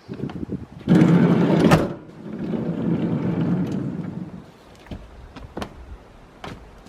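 A Sprinter van's sliding side door rolls along its track and shuts with a sharp clack about two seconds in, followed by a softer rumbling stretch and a few light clicks.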